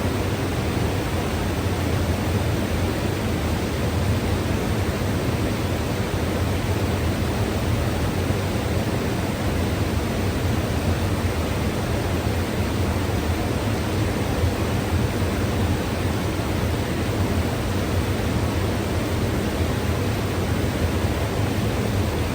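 River water rushing steadily, a dense, even noise with a strong low rumble and no separate splashes or changes.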